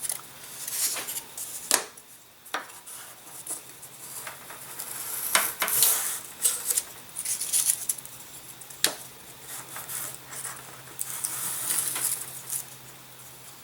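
Razor plane shaving a model aircraft wing to an airfoil, thinning it toward the trailing edge: a run of short, irregular scraping strokes with a few sharp clicks of the tool against the wood.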